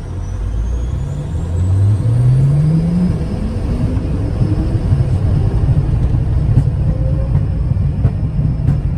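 Dassault Falcon 50 business jet's turbofan engines spooling up for takeoff. A whine rises in pitch over a deep rumble during the first few seconds. The rumble then builds and stays heavy as the jet rolls down the runway.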